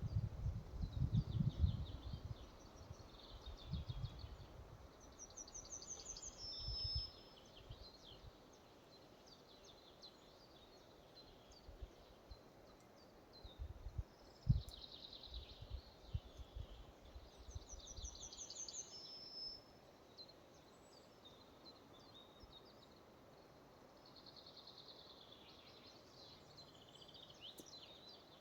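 Forest ambience with songbirds singing short trilled phrases; the same phrase recurs about five and eighteen seconds in. Low rumbling gusts of wind come in the first few seconds and again midway.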